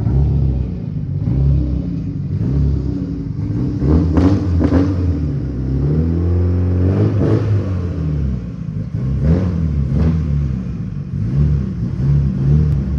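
Mitsubishi Lancer Evolution VIII's turbocharged 4G63 four-cylinder running through a Buschurs 3-inch catback exhaust, revving up and dropping back several times, its pitch rising and falling.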